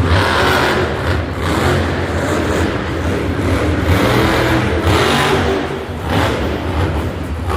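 Monster truck engine revving loudly, the noise rising and falling in repeated surges over a steady low rumble.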